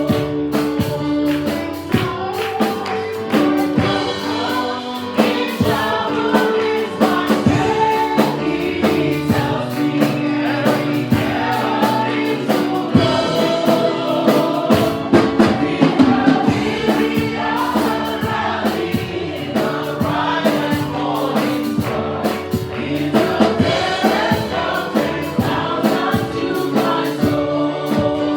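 Congregation and worship team singing a gospel praise song with a choir, backed by keyboard and drums.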